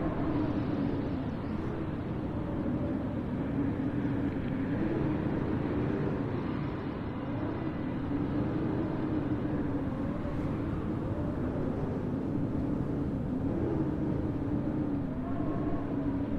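Blizzard wind blowing steadily, with a low howling tone that slowly wavers up and down in pitch.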